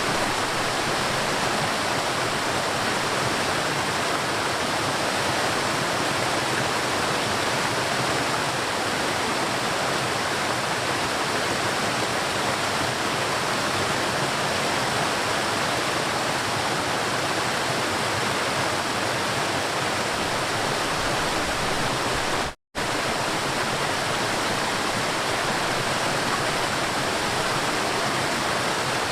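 River water rushing and flowing steadily. It drops out to silence for a split second about three-quarters of the way through, then carries on as before.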